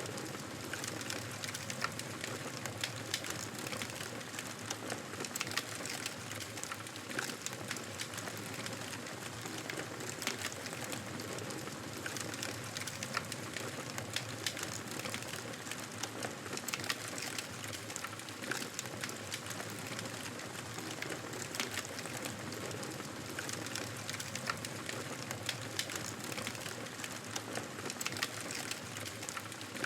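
Fireplace wood fire crackling: frequent small, irregular pops and snaps over a steady soft hiss.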